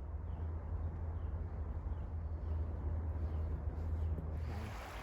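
A steady low rumble, with a small bird's short chirp repeated faintly in the first half; about four and a half seconds in, the rushing hiss of a river or creek comes in.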